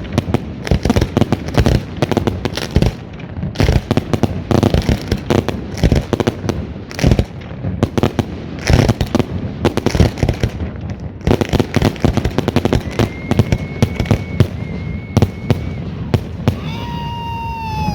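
A rapid barrage of aerial fireworks, sharp bangs and crackling bursts several times a second with almost no gaps. A high steady whistle sounds for a few seconds in the second half. Near the end the bangs thin out and high sliding whistles and shouts come in.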